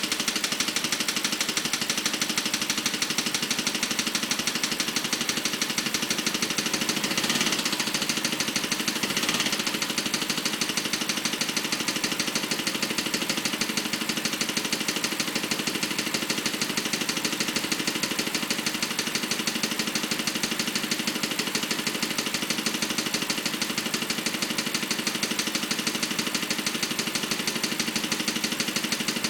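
BMW 545i's 4.4-litre V8 engine running with a rapid, even clicking that the owner calls a weird noise.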